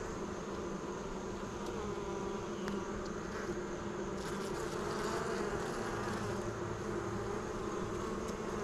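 Honeybees from an opened hive buzzing in a steady, decently loud hum. This is the hum of a queenless colony, which the beekeepers take as the sign that the bees are not queen right.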